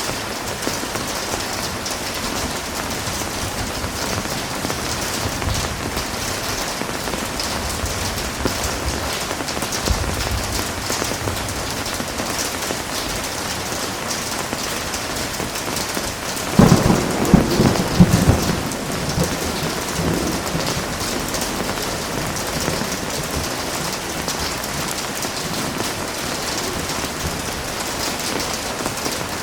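Heavy rain falling steadily in an even hiss. A little past halfway a loud thunderclap cracks and rumbles away over a couple of seconds, and fainter low rumbles of thunder come earlier.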